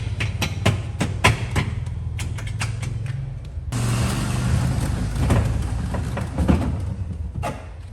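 A motor hums steadily under a run of sharp knocks and clicks; about four seconds in, a hiss joins it.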